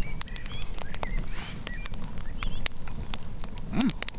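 Campfire crackling with many sharp pops, while small birds give short, high chirping calls.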